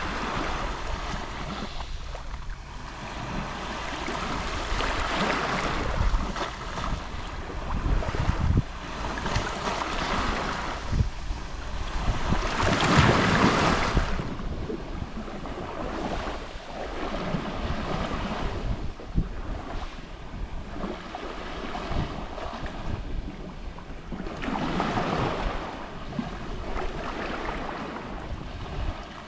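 Gentle Mediterranean Sea waves lapping and washing on the shore, each wash swelling and fading every few seconds, the largest about halfway through. A low rumble of wind on the microphone runs underneath.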